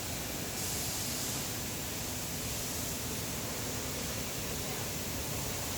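Steady, even running noise of a woodworking machine, a constant hiss with a faint hum under it and no distinct knocks or changes.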